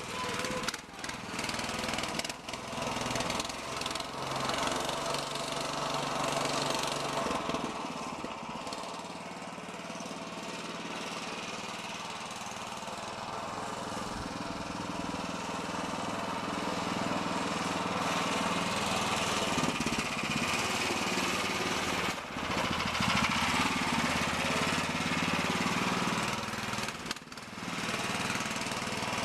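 A mini bike's 16 hp Duromax single-cylinder engine running as the bike is ridden. It is louder at first, fades through the middle and grows loud again near the end, with two brief dips.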